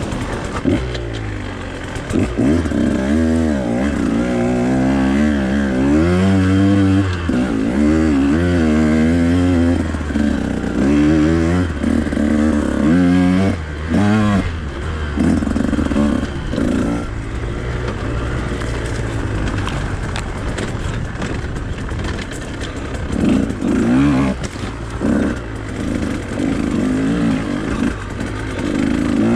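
Husqvarna TE 150 two-stroke dirt bike engine being ridden, revving up and falling back again and again as the throttle is opened and closed.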